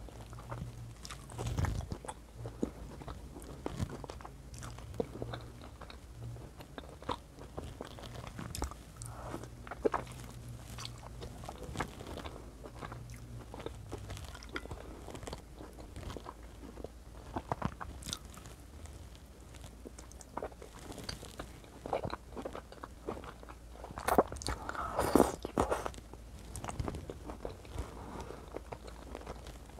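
Close-miked chewing and biting of stewed meat and white beans, with many sharp wet mouth clicks and smacks. A louder stretch of chewing comes near the end.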